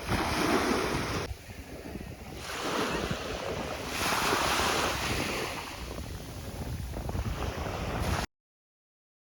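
Sea waves washing onto the shore, swelling and fading about three times, with wind buffeting the microphone; the sound cuts off suddenly about eight seconds in.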